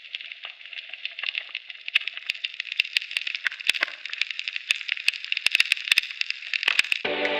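Underwater coral-reef crackle: a dense, continuous crackling of sharp clicks and pops, the sound of snapping shrimp on the reef.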